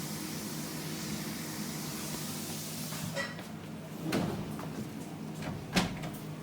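Dishwasher drawer being handled: a steady hiss that stops about three seconds in, then a few knocks and clunks, the loudest near the end, as the drawer is slid and shut.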